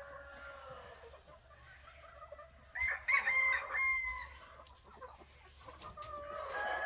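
Rooster crowing loudly about three seconds in, a pitched call lasting over a second, with other chickens calling faintly before and after it and another call starting near the end.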